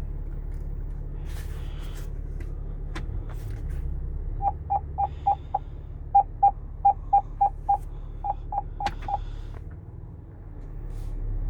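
Short electronic beeps at one pitch, about fifteen in three quick runs, over a low steady hum.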